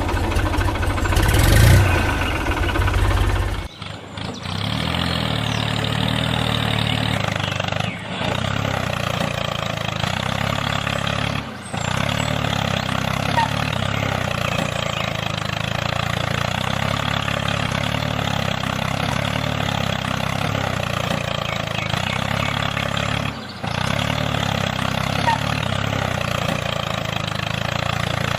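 Engine running steadily, with a heavier, deeper rumble for the first few seconds and a few brief dips where the sound cuts.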